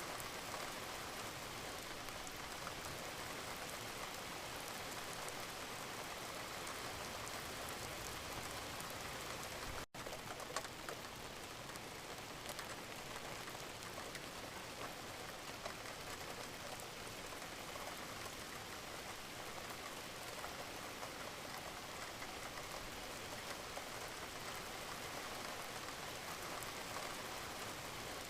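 Steady gentle rain, a soft even hiss with scattered patter of individual drops. About ten seconds in, the sound cuts out for a split second and a single sharper tick follows, like an edit seam.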